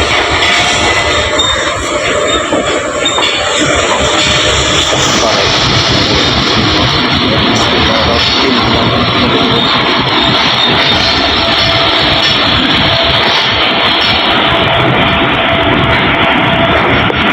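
Passenger train running on the rails, a loud steady din of wheels and carriage noise.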